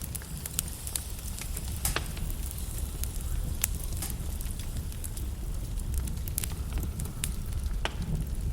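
Wood logs burning in a fireplace: sharp crackles and pops at irregular intervals over a steady low rumble of flame.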